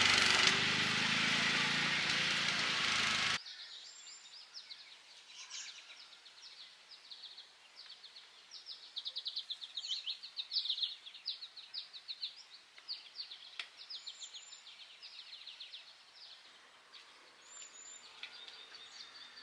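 A loud, steady rushing noise that cuts off suddenly about three seconds in, followed by small birds chirping rapidly and repeatedly in a quiet outdoor scene.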